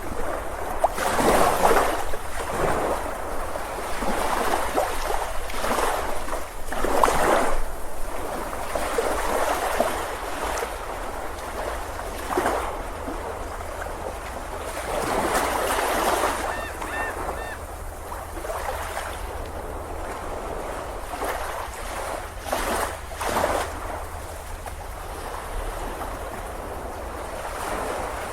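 Ocean surf: waves breaking and washing up a beach, swelling and fading every few seconds over a steady low rumble.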